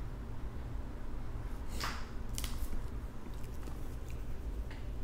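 Crab leg shell being snapped and cracked apart by hand: a short crackle about two seconds in, followed by a few sharp clicks, over a steady low hum.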